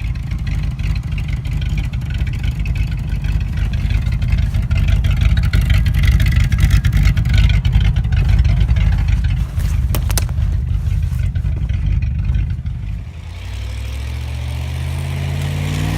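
1984 Dodge Ram pickup's engine running as the truck drives, a rough low rumble with one sharp knock about ten seconds in. Near the end it settles into a smoother, even drone that slowly rises in pitch.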